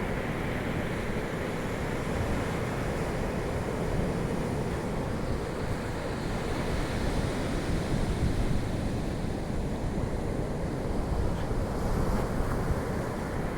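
Ocean surf washing ashore in a continuous wash, with wind buffeting the microphone.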